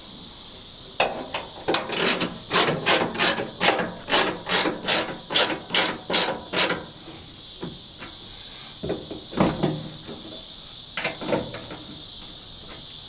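Hand tool working on the truck door's window-track hardware: a run of quick, even mechanical strokes, about three or four a second for some six seconds, then a few scattered clicks. Behind it is a steady, high insect buzz.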